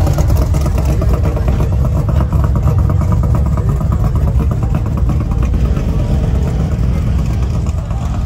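A loud car engine running, a low continuous rumble with a regular pulsing beat.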